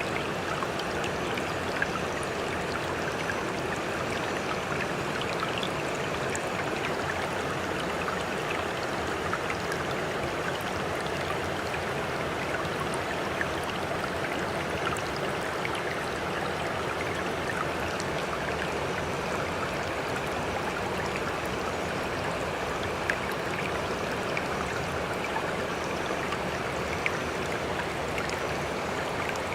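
Steady rush of moving water with fine crackling and fizzing throughout, even in level with no rise and fall of separate waves.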